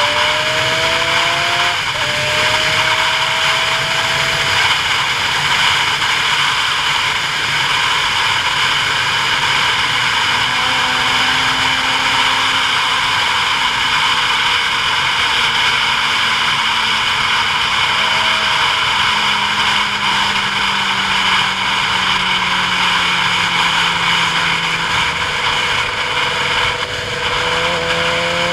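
Steady wind rush over the microphone of a moving road vehicle. Under it, the engine's tone rises over the first couple of seconds, then holds, then slowly falls.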